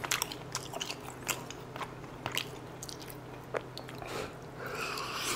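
A person chewing a mouthful of braised chicken, with a string of short wet clicks and smacks, and a breathy exhale near the end.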